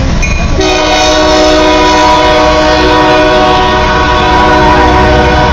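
CN freight locomotive's multi-chime air horn sounding one long blast, starting about half a second in and held steady for about five seconds, over the low rumble of the passing train.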